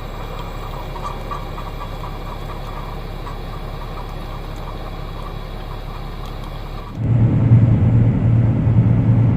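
Steady engine and road noise of a semi truck on the move, heard from inside the cab. About seven seconds in it gets suddenly louder, with a strong low engine drone.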